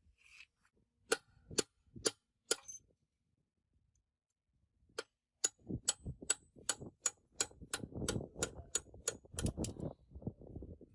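Sharp metallic taps or clicks of a tool on metal parts. Four come spaced about half a second apart, then after a pause a steady run of about two to three a second that quickens slightly, with a low rumbling handling noise underneath.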